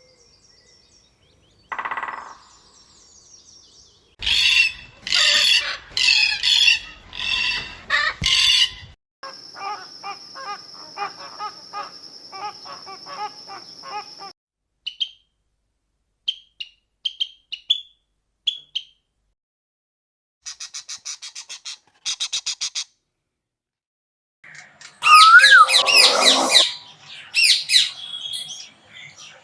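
A string of different bird calls and songs played one after another, each lasting a few seconds with brief silent gaps between: a run of five loud repeated calls, a long trill under a steady high whistle, short scattered chirps, a rapid ticking series, and a loud burst of varied calls near the end.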